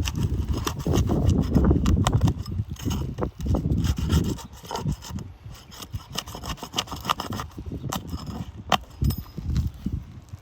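Rough scraping and rubbing on asphalt roof shingles, with scattered clicks and knocks. A heavy low rumble sits on the microphone for about the first four seconds, then the scraping and clicking carry on with less rumble behind them.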